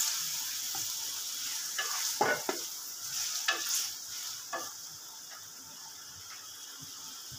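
Chicken and tomatoes sizzling in hot oil in an aluminium pot while a wooden spatula stirs them, scraping and knocking against the pot a few times. The stirring stops about five seconds in, leaving a steady sizzle as the tomatoes fry down.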